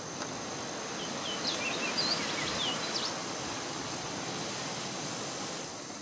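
A bird sings one short phrase of quick, varied chirps and slurred notes about a second in, lasting about two seconds. Underneath is steady outdoor noise and a constant high-pitched whine.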